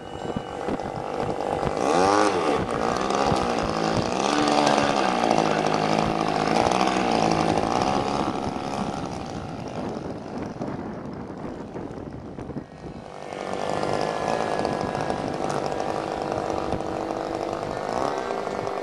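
Small engine of a radio-controlled floatplane (a Hangar 9 J-3 Cub model) running in flight, a buzzing drone whose pitch swoops up and down as the plane passes and turns. It fades briefly past the middle, then comes back steadier.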